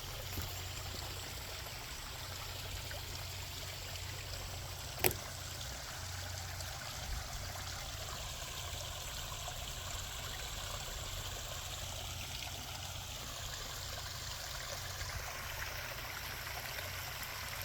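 Backyard pond waterfall: water running and trickling steadily, with a single sharp click about five seconds in.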